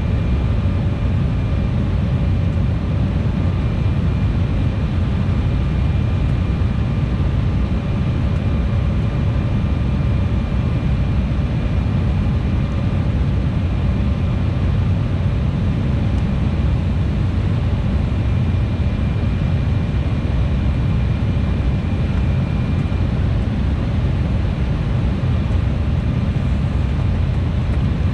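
Embraer E175 airliner's GE CF34 turbofan engines and airflow heard from inside the cabin: a loud, steady rush with a faint constant whine over it.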